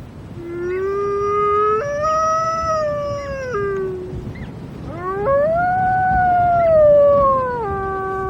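An Arctic wolf howling: two long howls, each starting low, breaking suddenly upward in pitch and sliding back down, the second settling onto a low steady note near the end.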